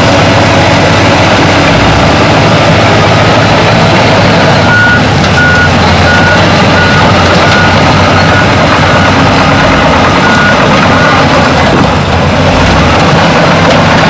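Heavy diesel earthmoving machinery running loudly, with a reversing alarm beeping steadily at one pitch, a little under two beeps a second, from about five to eleven seconds in.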